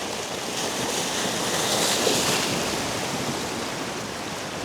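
Sea waves washing against the rocks of a jetty, with wind on the microphone; the wash swells about two seconds in.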